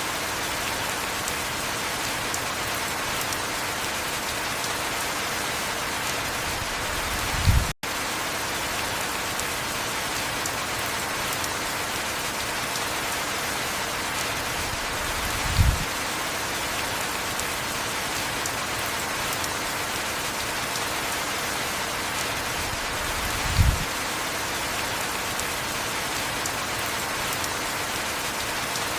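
Heavy rain falling steadily, an even hiss. A short low thump comes three times, about every eight seconds, and the sound cuts out for a split second about eight seconds in.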